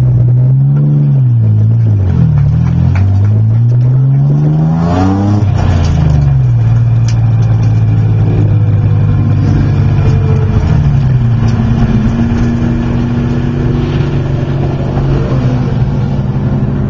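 Race car's engine heard from inside the cabin, its revs rising and falling several times over the first five or six seconds, then holding a steady note as the car rolls along at low speed.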